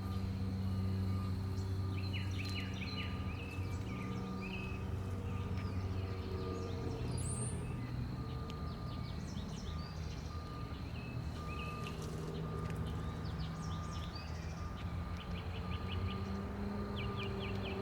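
Small birds chirping, with several quick trills of rapid notes about two seconds in and again near the end, over a steady low hum like distant traffic.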